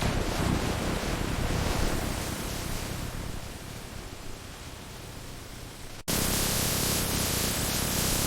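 Steady hiss-like noise that slowly fades for about six seconds, then cuts off abruptly and is replaced by a louder, brighter hiss.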